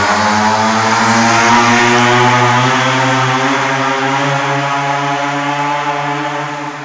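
Minibike's small engine running at a steady speed, slowly getting quieter through the second half.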